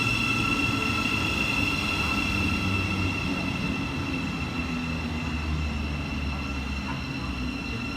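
Thameslink Class 700 electric train at the station, giving a steady high electrical whine over a low rumble that slowly fades.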